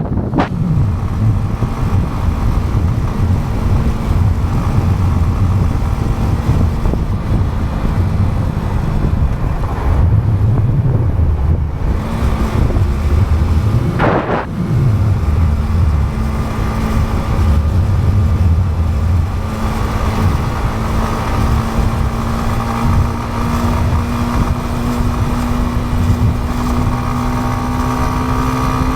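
Motorcycle engine running at steady cruise, heard with heavy wind buffeting on the microphone. The engine pitch climbs gradually over the last third as it accelerates. A brief whoosh rises and falls about halfway through.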